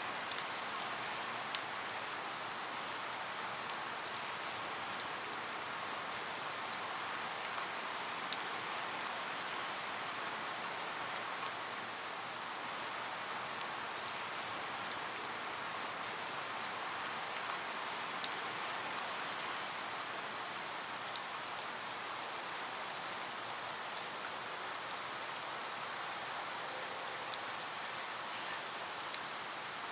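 Steady rain falling, an even hiss with many scattered sharp drop ticks throughout.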